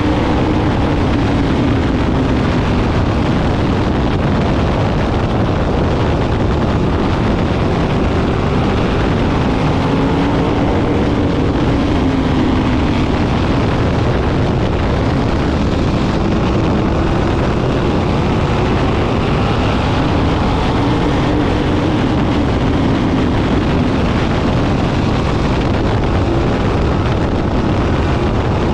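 A pack of sprint car engines racing around the oval at full throttle, several engine notes overlapping and rising and falling in pitch as the cars come past, with wind on the microphone.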